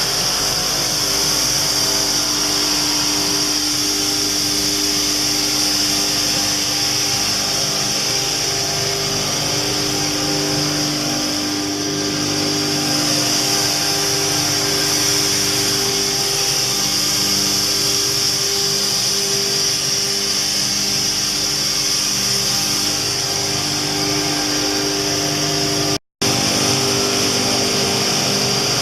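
SCM Olimpic K203 edgebanding machine running steadily, its motors giving several steady tones over a high hiss. The sound drops out for a moment near the end.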